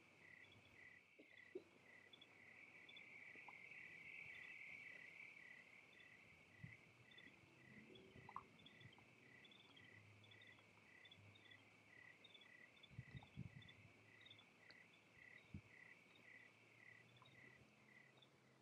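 Faint evening insect chorus, a steady high buzz with an even pulse about twice a second and scattered higher chirps, with a few soft knocks about two-thirds of the way in.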